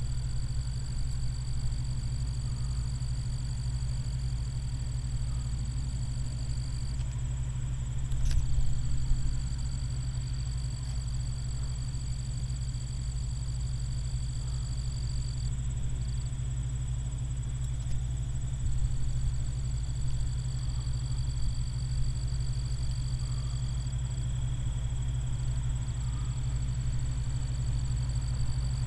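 Massey Ferguson combine running steadily while harvesting soybeans, a constant low rumble, with a brief knock about eight seconds in.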